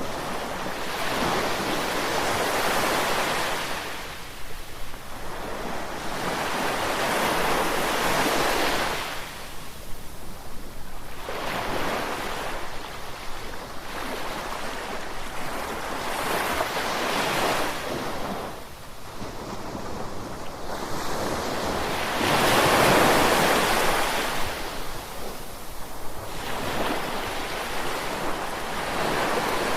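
Ocean waves breaking and washing in, one surge after another every few seconds, about six in all; the biggest crash comes a little past two-thirds of the way through.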